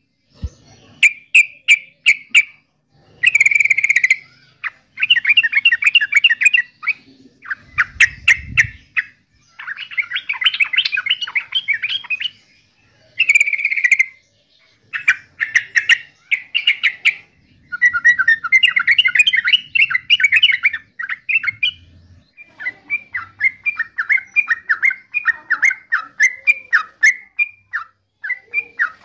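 Yellow-vented bulbul (Pycnonotus goiavier) singing: phrase after phrase of quick, bubbly chattering notes, each phrase a second or two long with short pauses between.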